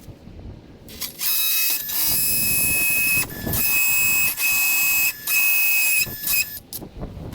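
A power tool running in several short bursts of about a second each with brief pauses between, a loud high-pitched whine, as in driving screws or cutting during shed construction.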